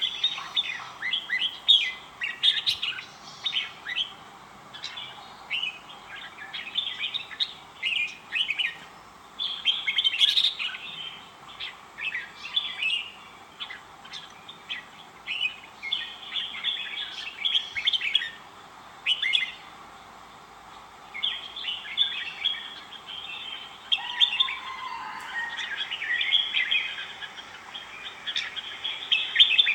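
Red-whiskered bulbuls singing: short, bright warbled phrases repeated one after another with brief pauses between them, over a faint steady hiss.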